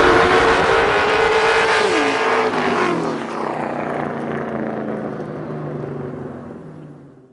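Racing vehicle engine held at high revs; its pitch drops about two seconds in, and it runs on lower and fades away before the sound cuts off abruptly at the end.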